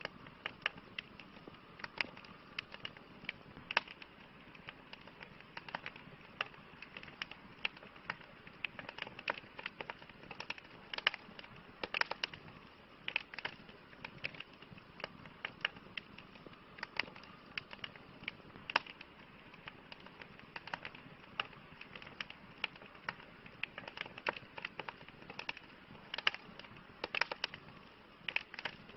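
Campfire crackling: irregular sharp pops and snaps of burning wood, some louder than others, over a soft steady hiss.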